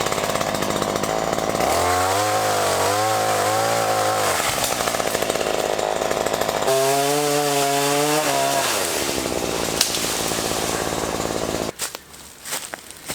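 Black Max 16-inch chainsaw running and cutting, its pitch shifting twice as the load changes. It shuts off suddenly about twelve seconds in.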